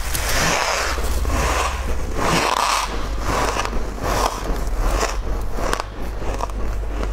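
Close-miked eating: a person biting and chewing food, a run of noisy chewing sounds about once or twice a second with small sharp clicks, over a steady low hum.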